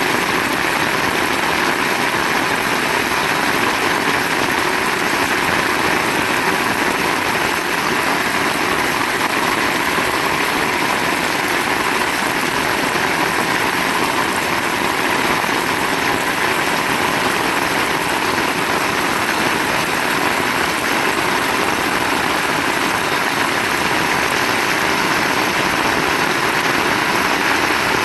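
Heavy rain pouring steadily, an even, dense hiss that holds at one level throughout.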